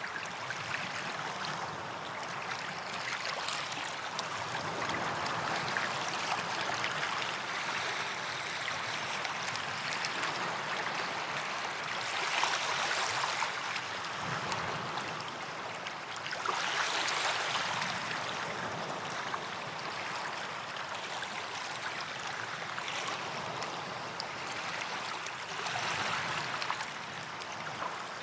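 Small waves washing onto a sandy beach, a steady hiss of surf that swells as a wave breaks, about 12 seconds in, again about 17 seconds in, and once more near the end.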